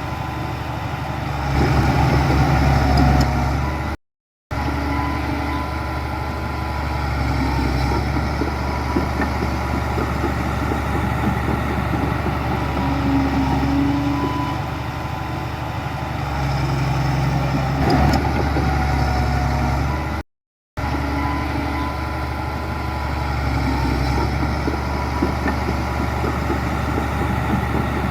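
Heavy diesel earthmoving machinery running steadily, its engine rising under load for a couple of seconds twice. The sound cuts out completely for about half a second twice.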